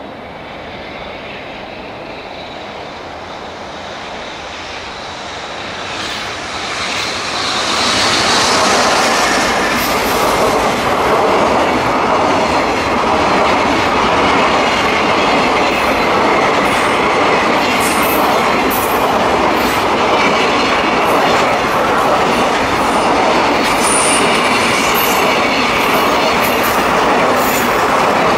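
Container freight train approaching, then rolling past close by, growing louder from about six seconds in to a steady rumble of wagons. Sharp wheel clicks over the rail joints run through the rumble, with a brief high wheel squeal near the end.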